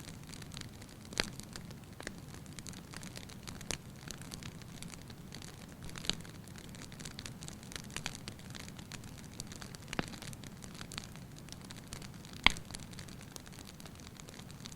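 Wood fire burning in a fireplace: a steady low rushing of the flames with scattered sharp crackles and pops from the burning logs, the loudest pop near the end.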